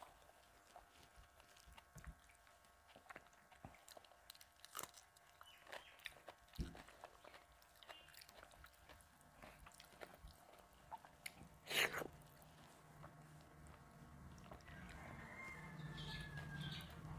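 Faint chewing with scattered small clicks as rice and dal are mixed by hand on a metal plate; one sharper click about twelve seconds in. A low hum builds near the end.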